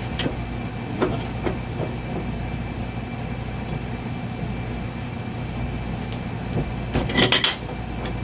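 Steady background hum with a few light metal taps, then a quick cluster of loud, ringing metal clanks near the end. These are hand tools on a hydraulic bead breaker's steel cylinder while its tight end plug is being broken loose.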